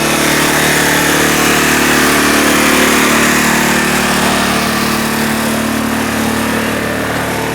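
An engine running steadily at a constant speed, with a steady hiss over it.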